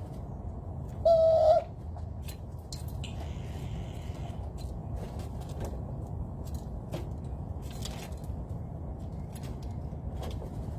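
A bird gives one short, loud, hooting coo about a second in, over a steady low background hum and scattered faint clicks.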